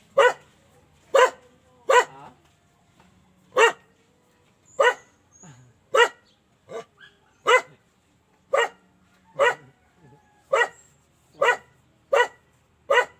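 A dog barking over and over, about thirteen short barks roughly a second apart.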